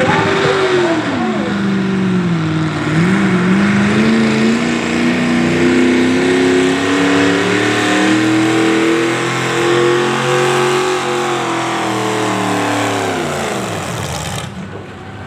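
Pulling vehicle's engine under full load dragging the sled down the track at a tractor pull. The revs dip a couple of seconds in, then climb steadily, then sink away near the end as the run bogs down and stops.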